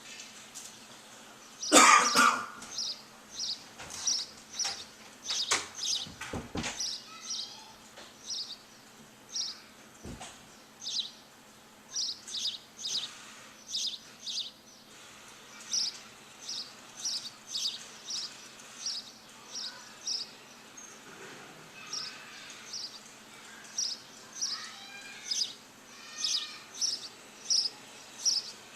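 Birds calling outdoors: a long run of short, high chirps repeated about once or twice a second. About two seconds in, a brief loud rasping noise stands out above the calls, with a few sharp clicks in the seconds after it.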